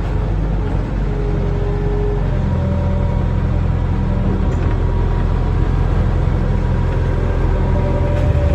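Excavator diesel engine running steadily, its low drone growing stronger about two seconds in, with faint steady whining tones above it.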